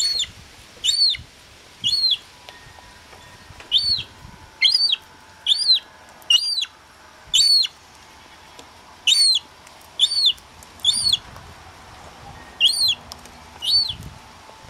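Young herring-type gull chick peeping: a string of about sixteen short, high-pitched calls, each rising and falling in pitch, coming irregularly at roughly one a second.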